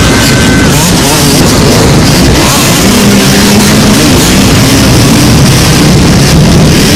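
Many ATV and dirt bike engines running and revving together at a mass race start, a loud, dense, continuous wall of engine noise.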